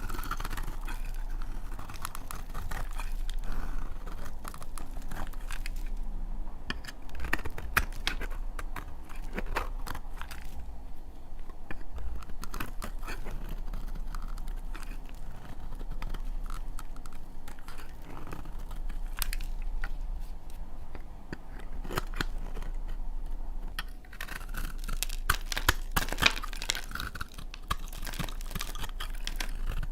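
Dry laundry soap being cut: a steady run of crisp crunching and crackling snaps, densest near the end.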